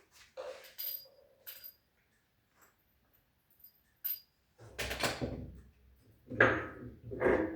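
A series of knocks and clatters from tools and parts being handled: a few quiet ones at first, then louder knocks in the second half.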